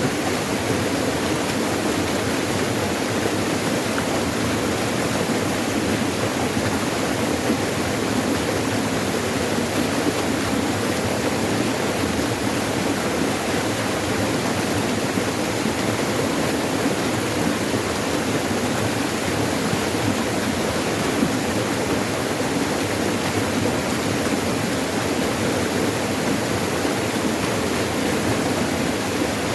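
Water rushing over rocks in a forest stream or cascade, a steady, unbroken rush.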